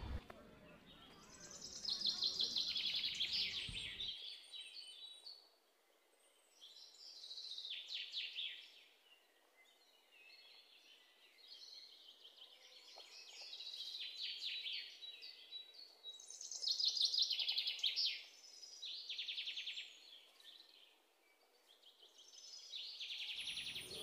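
Birds singing in short, high, rapidly trilled phrases, about six of them a few seconds apart, with faint background noise between.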